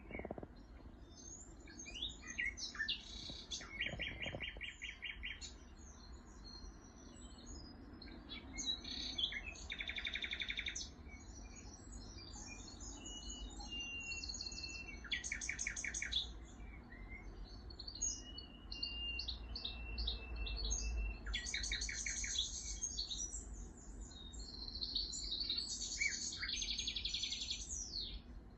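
Several songbirds singing and chirping together, with rapid trills every few seconds and thin high whistles in between, over a faint low rumble.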